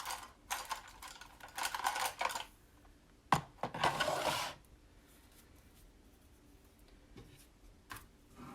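Clicks, clatter and rustling of craft supplies being handled on a tabletop, in two busy spells in the first half, with one sharp click about three seconds in and a few faint clicks later.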